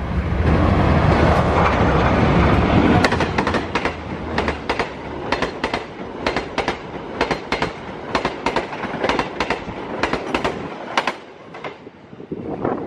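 Diesel locomotive-hauled passenger train passing close at speed. The locomotive's low rumble comes first, then the coach wheels click steadily over the rail joints, several times a second, until the last coach passes about eleven seconds in.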